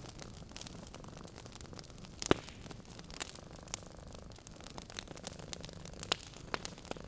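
Wood fire crackling in a fireplace: irregular sharp pops and snaps over a soft steady hiss, the loudest pop a little over two seconds in.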